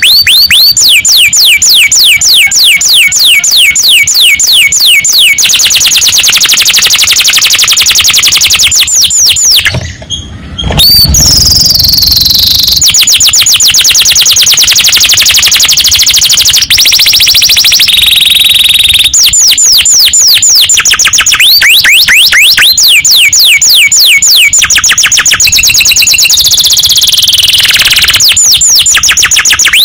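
Domestic canary singing loudly and without pause in the 'ngerek' style: runs of very fast repeated down-slurred whistled notes alternating with buzzy rattling rolls, switching abruptly between phrases every few seconds. A short break about ten seconds in holds a low muffled sound.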